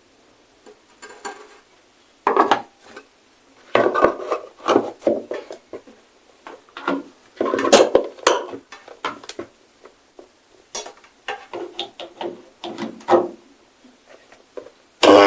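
Kitchen utensils and containers clattering and knocking irregularly as vegetables are loaded into a small electric grinder's jar. Just before the end a loud steady whirring starts, the grinder motor switching on.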